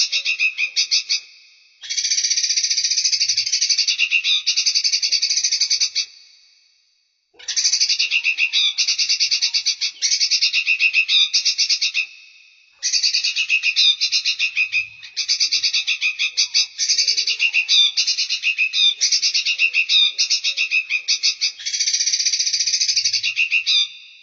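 Recorded songbird song: rapid, pulsed high trills repeated in bouts several seconds long, with short breaks between them.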